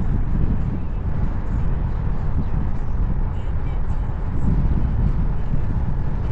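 Steady low rumble of wind buffeting the microphone, with ocean surf washing beneath it.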